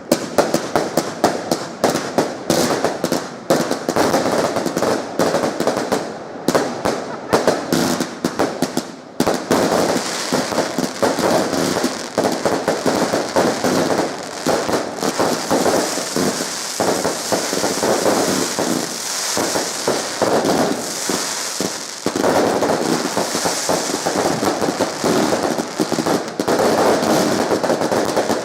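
Fireworks going off in a dense, continuous run of rapid cracks and pops, joined about a third of the way in by a steady high hiss.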